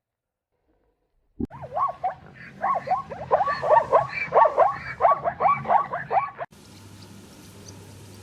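An animal giving a rapid series of short calls that sweep up and down in pitch, about three or four a second, starting after a second or so of silence. The calls cut off abruptly near the end, leaving a faint steady hiss.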